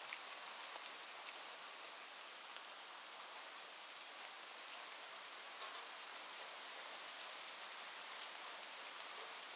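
Steady rain, an even hiss of falling drops with a few sharp ticks scattered through it.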